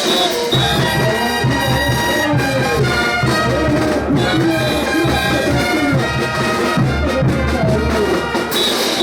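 Bolivian brass band playing a ch'uta dance tune: trumpets and trombones carry the melody over a pulsing low bass beat.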